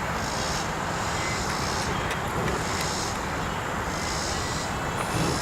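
Steady outdoor background rush with insects calling high and shrill in regular pulses, about one to two a second.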